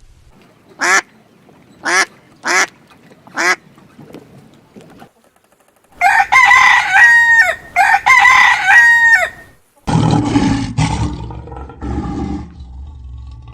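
Four short fowl calls, then a rooster crowing twice, each crow a long, loud call that steps up, holds, and drops at the end. Low, noisy farmyard sounds follow near the end.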